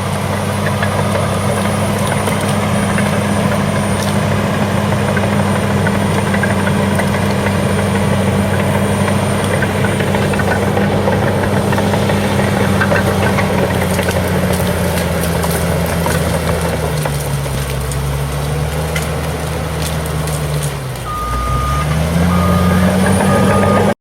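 Bulldozer's diesel engine running steadily with scattered sharp cracks and clanks. About three-quarters of the way through the engine note drops and bogs down, then climbs back up. Near the end the reversing alarm starts beeping evenly.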